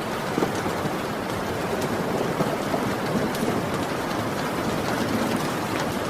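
Heavy rain falling steadily, a dense hiss with scattered sharper drop hits, plausibly a low rumble of thunder underneath.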